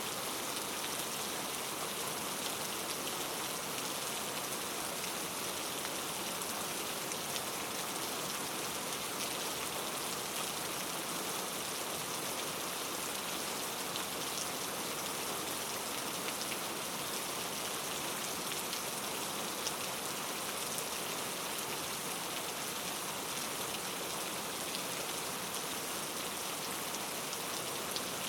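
Steady rain falling, an even hiss with faint scattered drop ticks that stays constant throughout.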